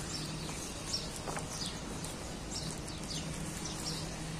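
Small birds chirping: a string of short, high calls, each falling in pitch, repeated irregularly over a faint steady low hum.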